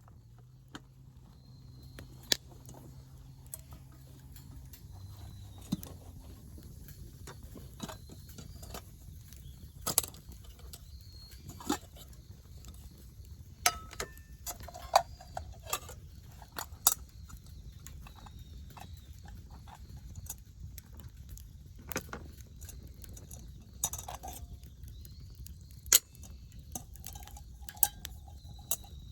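Irregular sharp clicks and knocks, a few with a brief ringing tone, over a steady low rumble.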